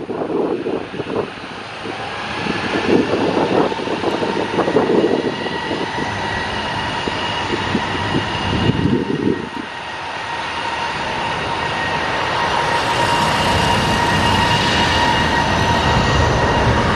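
A light aircraft's engine drone growing steadily louder as the plane approaches, with steady whining tones over a broad rush. Wind buffets the microphone in the first half.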